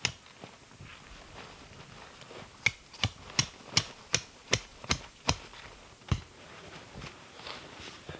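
A quick run of about eight sharp, evenly spaced knocks, then one more a moment later.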